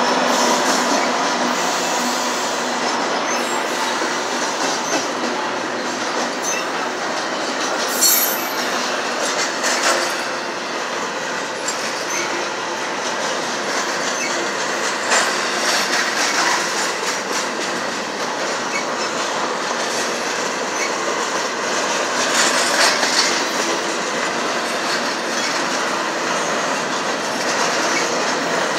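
Double-stack container freight train rolling past: a steady rumble and rattle of steel wheels on rail and of the cars, with a few sharper clanks through it.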